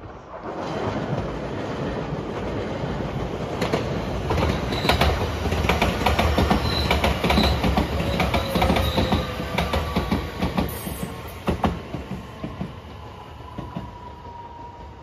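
JR West 227 series 'Urara' electric train running past, its wheels clacking over the rail joints in a steady run of beats. It grows loud within the first second, is loudest in the middle as the cars go by, and fades over the last few seconds as it pulls away.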